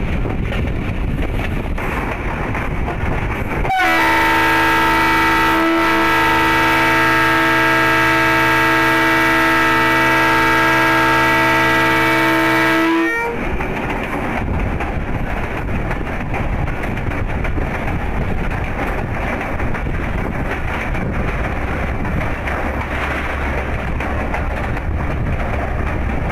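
Passenger train running along the track at about 40–45 km/h, heard from on board. About four seconds in, the train's horn sounds one long, steady blast of about nine seconds that cuts off sharply, then the running noise carries on.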